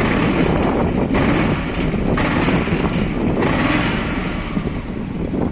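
MTZ-132 mini tractor's engine running steadily, a throaty, motorcycle-like sound the owner likens to a Harley-Davidson.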